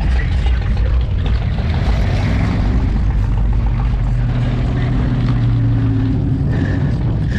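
A car engine running at a low, steady note, its deep hum settling in and strengthening about three seconds in.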